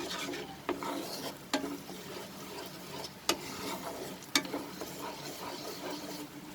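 Tomato puree masala sizzling and frying over a high flame in a karai while being stirred, with four sharp knocks of the spatula against the pan.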